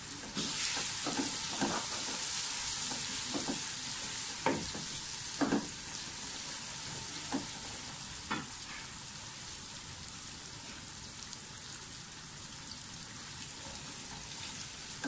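Whole spices, onions and ginger-garlic paste sizzling in hot oil in an aluminium pressure cooker, stirred with a wooden spoon that knocks and scrapes against the pot now and then. The sizzle eases slightly in the second half.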